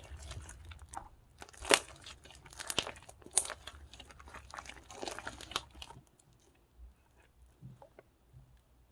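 Hands squishing and pressing slime: a dense run of sticky clicks and crackles that thins to a few faint ones after about six seconds.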